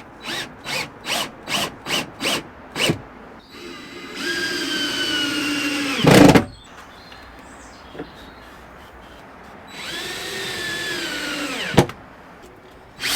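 Cordless drill-driver driving screws into timber: a quick series of short trigger bursts, then two longer runs of steady whine that sag in pitch as each screw bites home, each ending in a sharp knock.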